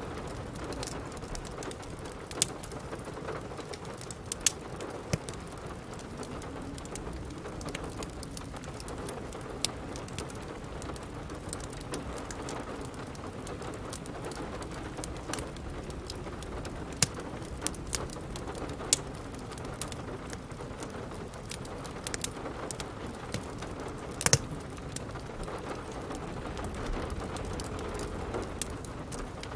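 Steady rain with the crackle of a wood fire: sharp pops at irregular intervals over the rain, one louder pop near the end.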